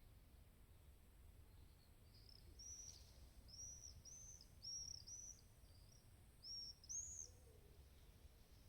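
Faint songbird chirping: a run of about ten short, high, arched notes, starting about two seconds in and ending near the end, over a faint low background rumble.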